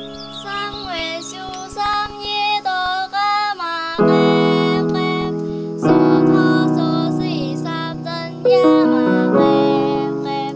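Piano chords accompanying a choir of young girls singing a melody in their high voices; fresh chords are struck several times and ring on, fading, beneath the singing.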